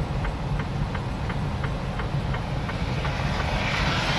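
Steady low rumble of a semi truck's engine and tyres heard from inside the cab while driving, with a light tick about three times a second. A hiss swells near the end.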